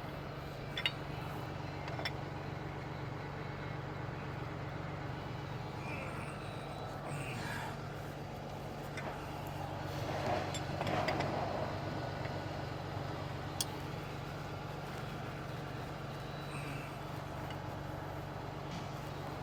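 Engine idling steadily with a low hum, a few light clicks over it and a short swell of louder noise around ten to twelve seconds in.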